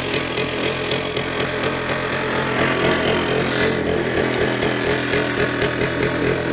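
Minsk motorcycle engine running steadily.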